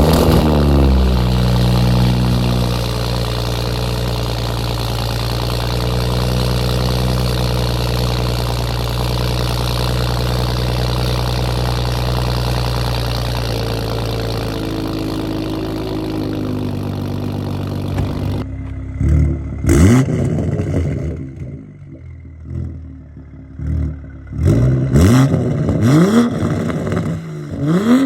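Toyota Supra A90's engine through a catless downpipe and straight-through RK Titanium titanium exhaust with no valve: it starts with a sudden loud flare, then holds a loud raised idle that drops a little in pitch about halfway. In the last third it is blipped several times, each rev rising and falling quickly.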